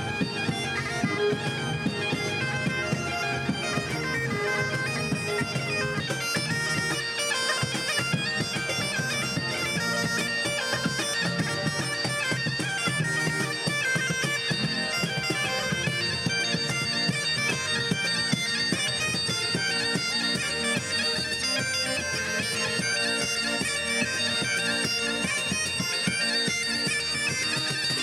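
Bagpipes playing a tune over their steady drone, with a lower accompaniment underneath.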